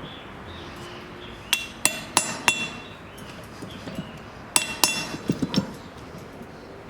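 Hammer blows on an anvil, each ringing out: four quick strikes, a pause of about two seconds, then three more ringing strikes followed by a few duller knocks.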